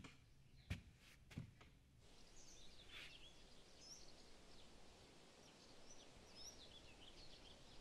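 Two soft thumps in the first second and a half, then faint birds chirping over a quiet outdoor background.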